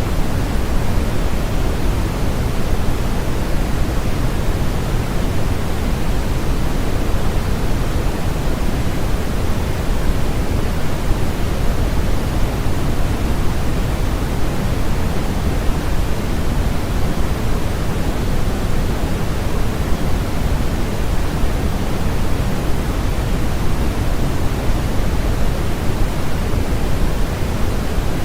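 Steady generated noise from a sleep-aid noise track: an even, unchanging rush, heavier in the low end than a bright hiss.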